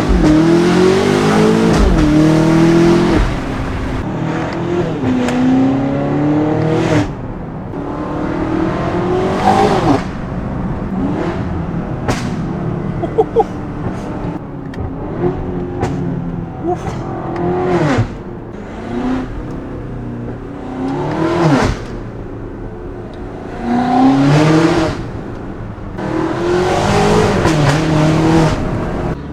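BMW S68 twin-turbo V8 in an X5M Competition, through free-flow downpipes and a valved full exhaust with the valves open, heard from inside the cabin with the windows down, pulling hard through the gears several times. The engine note climbs and then drops at each upshift with a sharp crack between the shifts.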